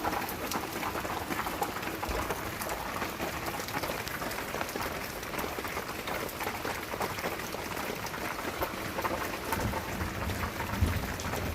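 Rain coming down steadily, an even hiss of drops, with a low rumble building near the end.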